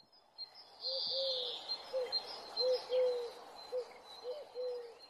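Bird cooing: a run of about eight short, low, arched coos, a few of them drawn out longer, with faint high chirping behind.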